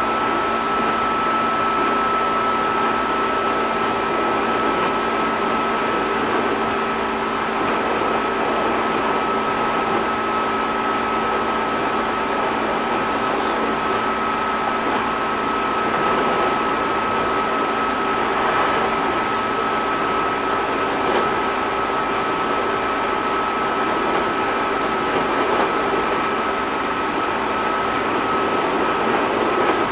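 Inside a JR 205 series 600 electric train car: a steady hum from the air conditioning and onboard electrical equipment, with a few constant tones that hold one pitch throughout and no rising or falling motor sound, as when the train stands at a station.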